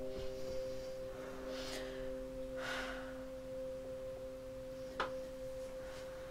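Background film score of soft, steady held tones like a sustained drone chord, with a couple of faint airy swells and one short click about five seconds in.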